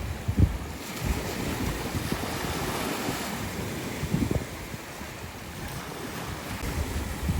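Wind buffeting the microphone in uneven low gusts over the steady rush of a rough sea's waves.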